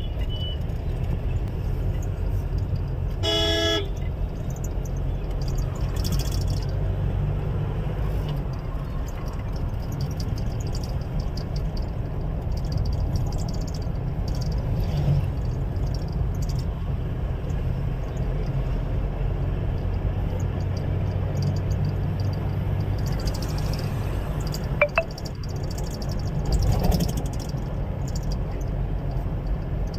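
Steady low rumble of a moving vehicle, with one short horn blast about three and a half seconds in and a brief click near the end.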